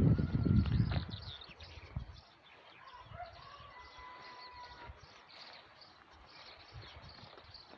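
Small birds chirping, short high calls with a few longer held whistles, over a quiet outdoor background. A loud low rumble on the microphone fills the first second.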